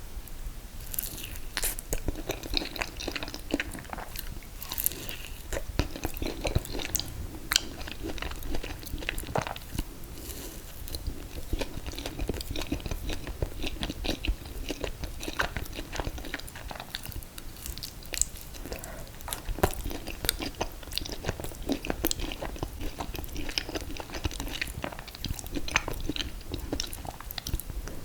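Close-miked chewing and mouth sounds of someone eating ice cream cake, with many small irregular wet clicks.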